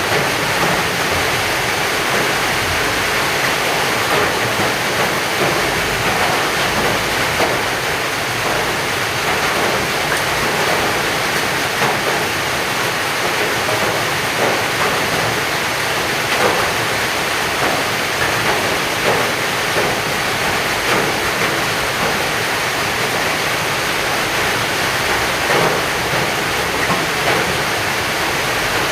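Heavy rain pouring steadily, a dense hiss scattered with many small drop impacts.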